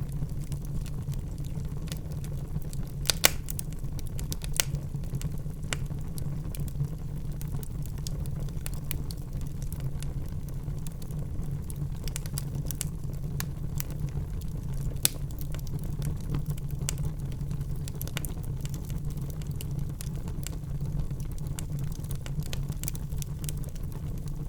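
Wood fire burning in a fireplace: a steady low rumble of flame with irregular sharp crackles and pops. The loudest pops come about three seconds in and again about fifteen seconds in.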